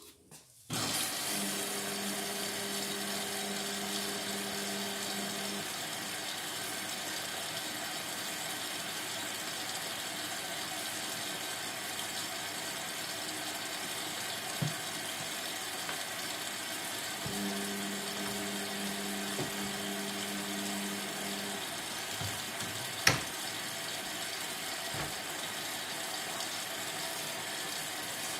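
Indesit MTWC71252WUK washing machine taking in water: a steady rush of water filling the machine starts suddenly about a second in. A low hum comes and goes twice for about four seconds each, and there is one sharp click near the end.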